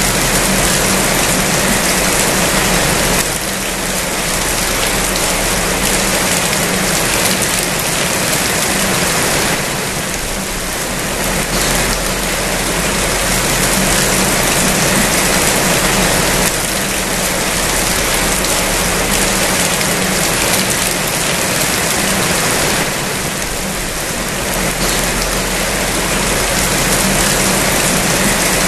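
Heavy rain falling, a dense steady hiss that swells and eases gently every several seconds, with a faint steady low hum beneath it.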